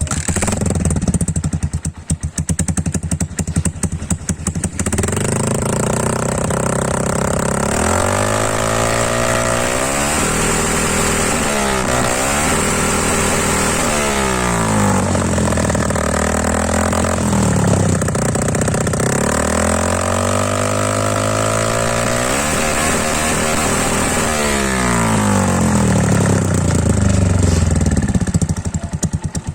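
Yamaha Sniper MX 135's stock 135 cc single-cylinder four-stroke engine breathing through a 51 mm tube-type Charama full exhaust with the silencer removed: it idles for a few seconds, is then revved up and down repeatedly, and settles back toward idle near the end.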